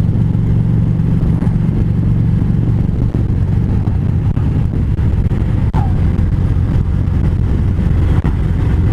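Harley-Davidson V-twin motorcycle cruising at a steady highway speed, its engine drone even throughout, with road and wind rush.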